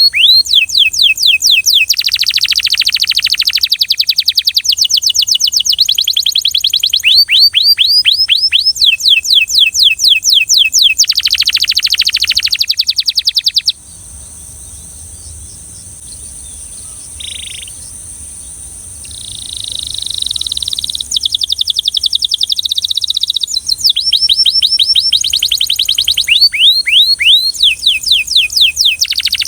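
Belgian canary singing in fast trills of rapidly repeated falling whistled notes. Roughly halfway through the song stops for about ten seconds, leaving only a few faint short notes, and then the trills start again.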